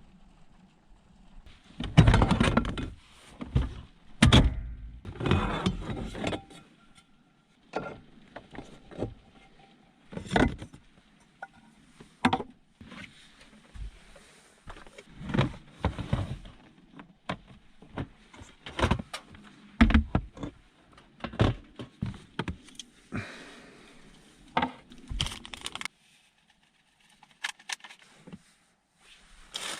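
Small hard objects being handled and set down: irregular clinks, knocks and rattles, with the loudest clatters about two seconds in and again around four to six seconds.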